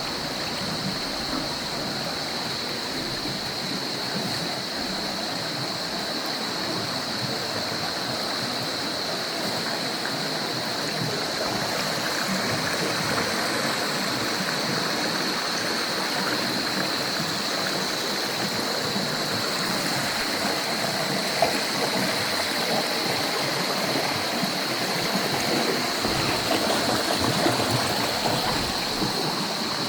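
Stream water running steadily over and between rocks, with a thin, steady high-pitched tone above it.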